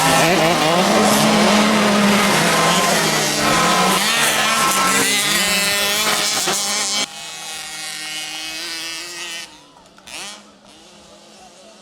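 Several motocross bike engines revving, their pitch rising and falling as they work through the gears. About seven seconds in, the sound drops suddenly to a quieter level, and it falls quieter still near the end.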